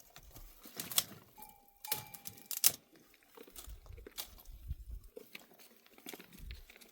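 A livestock bell rings once, a steady metallic ding lasting just over a second, about one and a half seconds in. Sharp clicks and cracks are scattered around it.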